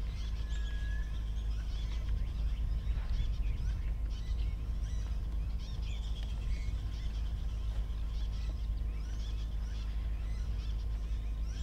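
Wild birds calling throughout in many short chirps and call notes, over a steady low rumble.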